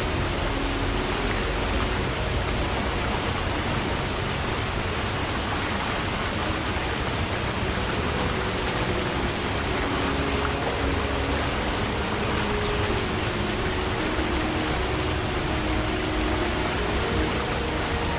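Forest stream flowing: a steady rush of running water.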